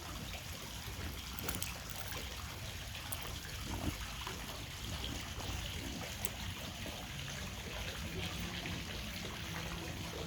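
A steady trickle of running water, with a few faint clicks.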